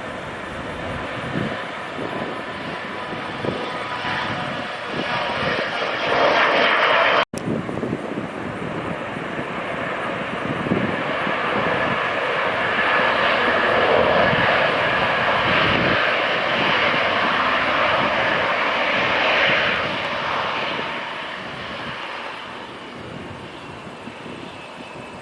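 Jet aircraft engines passing: the noise builds, cuts out for an instant about seven seconds in, stays loud for several seconds, then fades away near the end.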